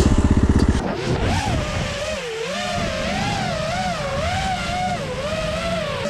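Dirt bike engine ticking over with a fast, even pulse, then from about a second in its note climbs and falls again and again as the throttle is worked.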